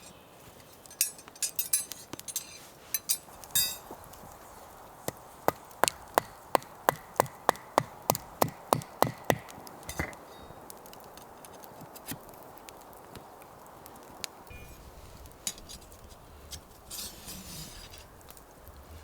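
Chopping with a blade: a run of about fifteen sharp, even knocks, roughly three a second, lasting about five seconds. Lighter clinks and knocks of handling come before it.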